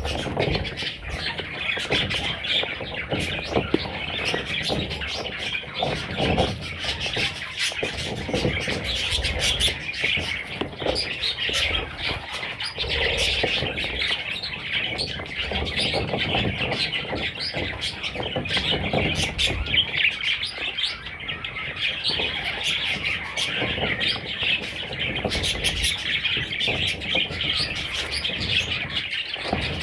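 Budgerigars chirping and chattering continuously in a dense mass of calls, with scattered low thumps and rustles underneath.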